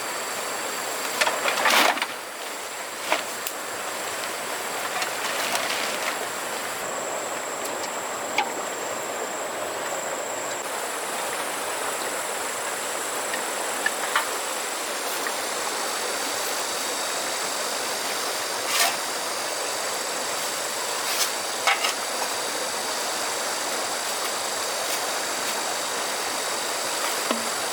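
Steady rush of flowing river water, with a few sharp knocks and clicks scattered through, a cluster of them about a second or two in.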